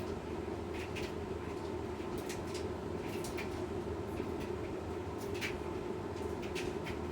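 Washing machine running mid-cycle: a steady low hum with irregular light clicks and ticks scattered through it. No rising spin whine.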